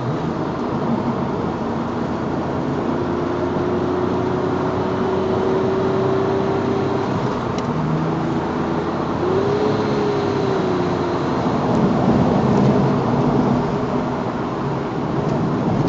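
Twin-turbo Porsche 911 driving at a steady pace, its engine running under the broad steady noise of tyres and road, with the engine note rising slightly and settling again around the middle.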